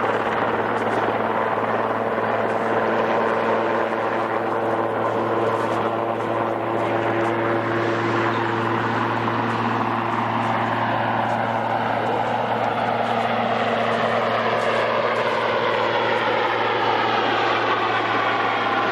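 Helicopter running overhead with a steady low engine and rotor hum. About halfway through, a second engine sound comes in whose pitch slowly glides, as of an aircraft passing.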